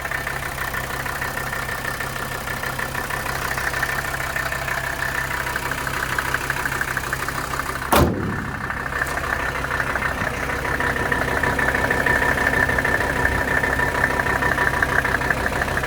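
Mercedes-Benz OM617 five-cylinder turbo diesel idling steadily, with a single sharp knock about eight seconds in.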